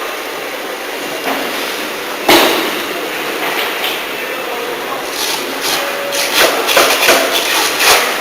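Production-line machinery for water heater tanks running steadily, with one loud bang about two seconds in and a run of sharp knocks in the second half.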